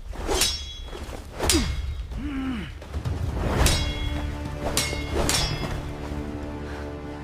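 A series of sharp metallic clangs, each with a brief high ringing tone, about six strikes roughly a second apart, over a steady low hum.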